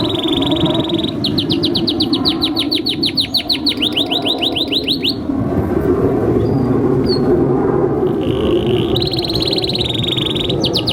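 Male domestic canary singing: a fast buzzing roll, then a run of quick repeated notes at about five a second. After a pause of a few seconds the song starts again with another roll and a fast trill.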